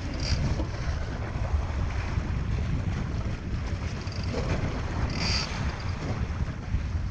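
Wind rumbling on the microphone aboard a fishing boat at sea, with short high squeaks just after the start and again about five seconds in.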